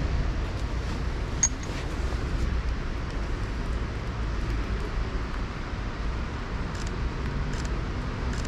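Steady urban background rumble of traffic and passing vehicles, with one sharp click about a second and a half in.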